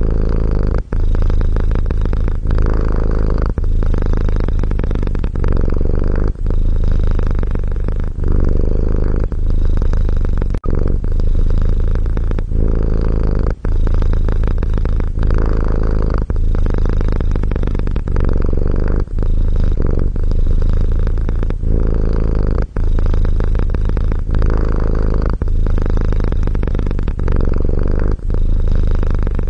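Domestic cat purring loudly and steadily, close to the microphone, with a short break every two to three seconds.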